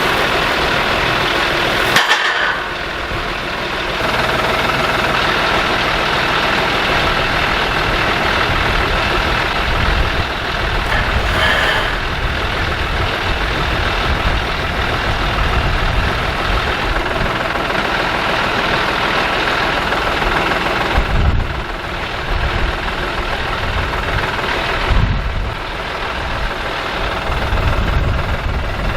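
A heavy vehicle's engine running steadily, with a few brief clunks.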